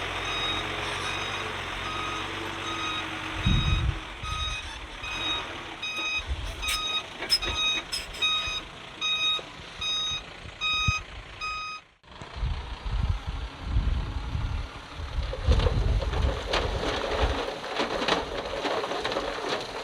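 Heavy machine's reversing alarm beeping about once a second over a low diesel engine rumble. About twelve seconds in it breaks off abruptly, and rough rumbling and crackling noise follows.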